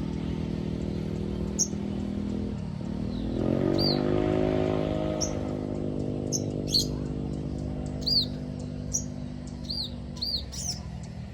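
Sogon songbird giving short, sharp high chirps and hooked whistled notes at irregular intervals, more often in the second half. Under them runs a motor vehicle engine, which drops in pitch about three seconds in and rises again soon after.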